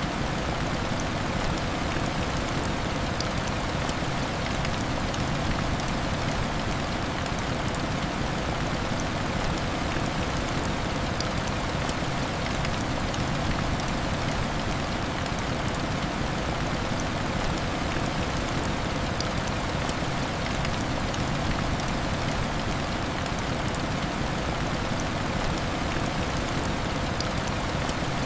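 Heavy rain falling steadily against a glass window: a dense, even hiss with faint scattered ticks of drops.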